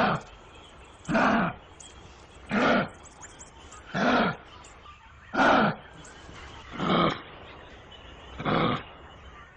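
An animal calling over and over: seven short, evenly spaced calls about one and a half seconds apart, each with a falling pitch.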